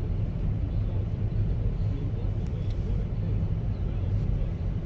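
Steady low rumble of a car being driven: engine and tyre noise.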